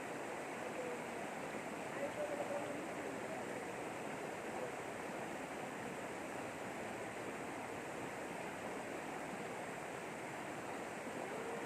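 River water flowing and rushing in a steady, even noise, with faint voices briefly about two seconds in and near the end.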